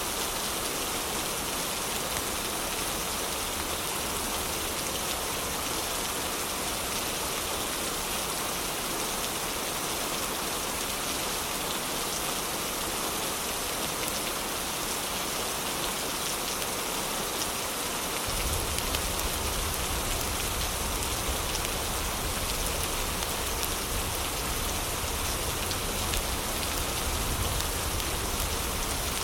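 Heavy rain falling in a steady, even hiss. About eighteen seconds in, a low rumble comes in underneath and stays.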